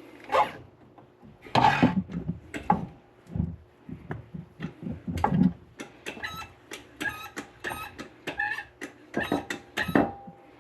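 Irregular metal clanks and knocks from tools and metal parts being handled and set down, several ringing briefly, with some duller thuds in between.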